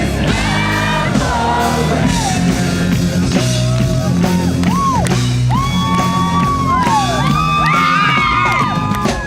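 Live rap-rock band playing loudly through a concert PA, with a steady beat and bass under long held, sliding vocal notes and shouts.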